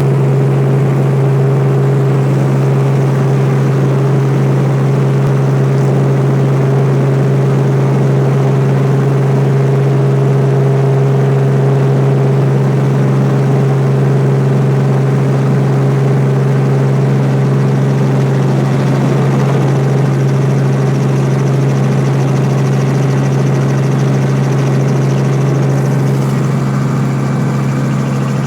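Helicopter running steadily: a loud, constant low drone that holds one pitch without rising or falling.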